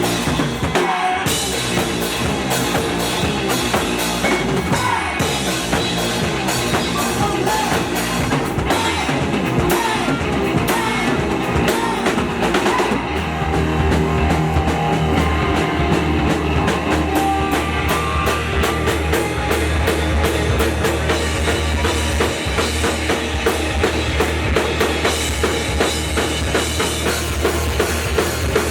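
Live rock band playing: drum kit with a steady beat, electric guitar and bass. The low end gets heavier and fuller about halfway through.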